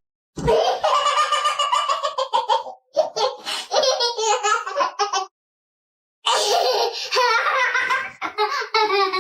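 A person laughing hard in long, high-pitched bouts, with a pause of about a second a little past halfway.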